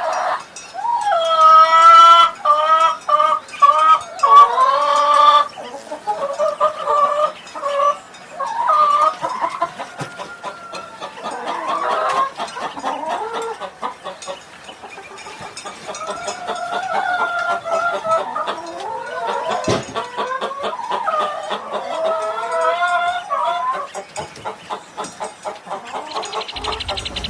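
Chickens clucking with a rooster crowing, the loudest, longest calls in the first few seconds and softer clucking after that.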